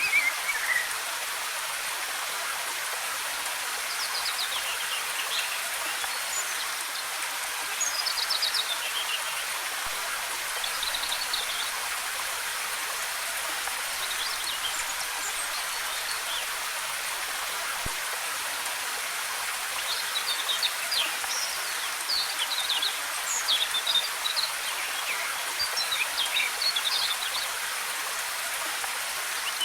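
Steady rushing of falling water, a high, even hiss without much low rumble, with songbirds chirping and trilling over it in short scattered phrases that come thickest in the latter part.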